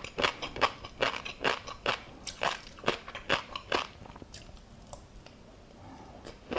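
Close-miked chewing of tobiko (flying fish roe): crisp crunching and popping at about two to three bites a second, easing off to near stillness about four seconds in.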